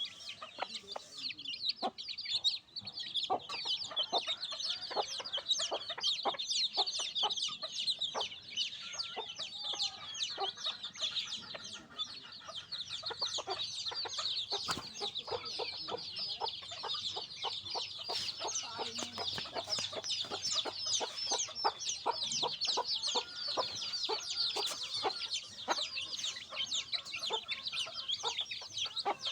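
A brood of baby chicks peeping continuously in many short, high, falling chirps, with lower clucks among them.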